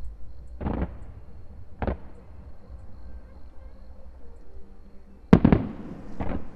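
Aerial fireworks shells bursting overhead, each a sharp boom with a short echoing tail. One boom comes about a second in and another about two seconds in, then the loudest, a quick double burst, a little after five seconds, followed by one more.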